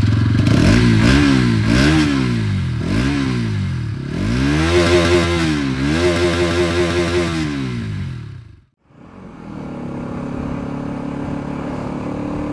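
Bajaj Pulsar NS200's single-cylinder engine being revved in place: three or four short throttle blips, then a longer rev held for a few seconds and falling back. Near the end the sound breaks off for a moment and a steady engine note follows.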